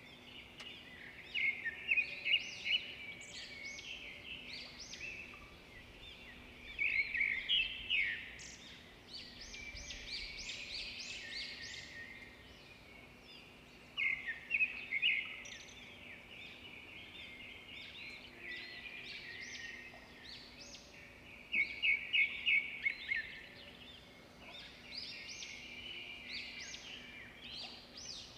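Small birds chirping and singing, with a few louder bursts of quick repeated chirps, over a faint steady hum.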